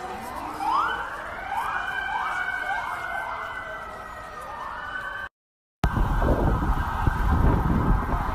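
Emergency vehicle sirens wailing, several at once, one sweeping up in pitch again and again about twice a second. The sound drops out for a moment about five seconds in, then a steady siren tone returns over a loud low rumble.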